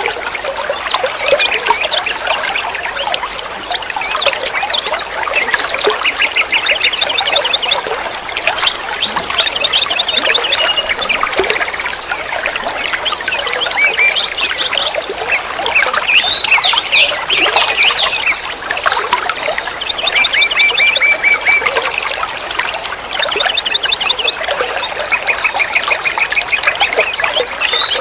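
A songbird singing continuously in a busy stream of chirps and chattering notes, broken every few seconds by runs of rapid repeated trill notes.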